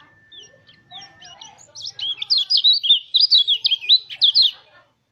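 White-eye (pleci) singing: a few faint scattered chirps, then about two seconds in a loud, rapid run of notes darting up and down in pitch, lasting nearly three seconds and stopping just before the end.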